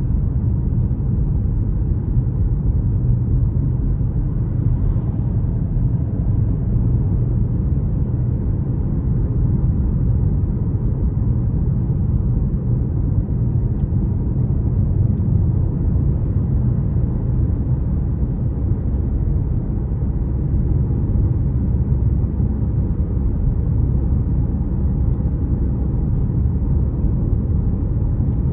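Car driving along a road at a steady pace: an even, low rumble of engine and road noise.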